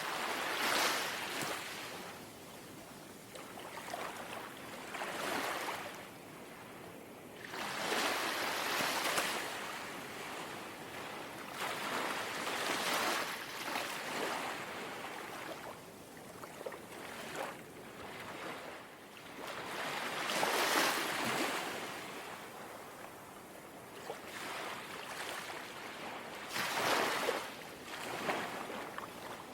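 Small, calm sea waves lapping and washing onto the shore, coming in as soft surges of rushing water every three to five seconds.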